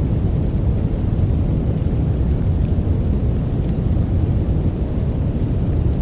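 A steady, deep noise track played as a sleep sound, a dense rumbling hiss heavy in the bass with no separate drops or claps.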